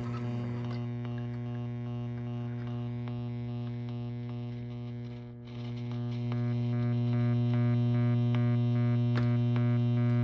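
Bally -51 pinball sound board under a diagnostic test ROM, putting out its steady buzzing 'heartbeat' tone through a speaker. The tone dips briefly a little past halfway, then comes back louder. The dip fits the heartbeat's momentary pause while the processor halts for the memory test after the test button is pressed.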